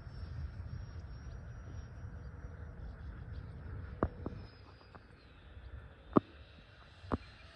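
Faint, high whine of the Freewing Zeus's 90mm electric ducted fan flying far off, its pitch falling about four seconds in, over wind rumbling on the microphone. Three sharp clicks come near the end.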